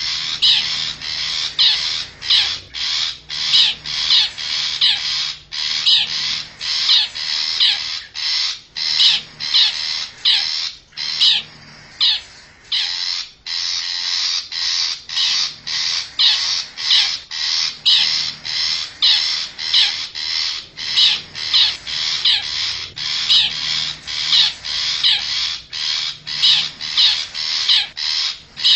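Long-tailed shrike (cendet) giving harsh calls over and over, about two a second, with a pause of about two seconds near the middle. It is a lure recording played to draw wild shrikes in.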